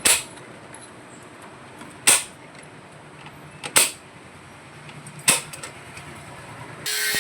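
Four sharp knocks, spaced roughly a second and a half to two seconds apart. Just before the end a power tool starts up with a loud, high hissing whine.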